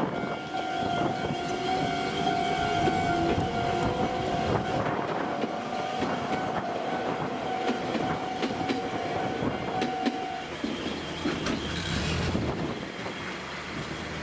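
An electric train passing over a level crossing, its wheels clacking over the rail joints, while the crossing's warning alarm sounds a steady electronic tone that stops about ten seconds in.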